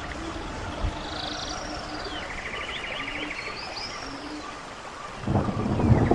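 Running stream with songbirds calling over it: high falling whistled notes and a rapid buzzy trill, repeated twice. About five seconds in, the water becomes louder and fuller.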